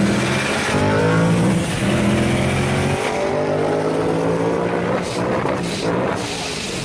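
Paxton-supercharged Ford Mustang 5.0 V8 at full throttle, heard from inside its cabin with the window open. Revs rise through a gear, drop at an upshift about three seconds in, then rise again, with wind rush over the engine.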